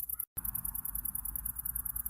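Summer-night insect chorus of crickets chirping in a fast, even pulse, over a low background hum; the sound cuts out completely for an instant near the start.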